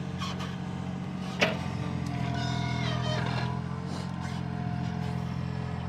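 Mini excavator's diesel engine running steadily while it works, with one sharp metallic clank about a second and a half in.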